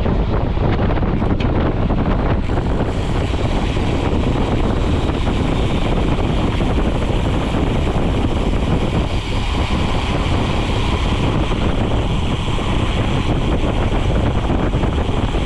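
Steady, loud wind rush buffeting a GoPro's microphone as a mountain bike is ridden at speed on the road.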